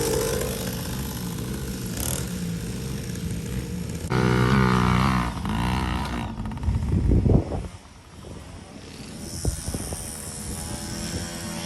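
Small 50cc kids' dirt bike engine buzzing along the track, revving loudest about four to six seconds in as it passes close. There is a brief low rumble about seven seconds in.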